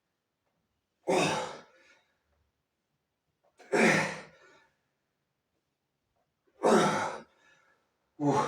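A person sighing out loud in strong, voiced exhalations, each about half a second long and fading off. There are three, spaced roughly three seconds apart, and a fourth starts near the end.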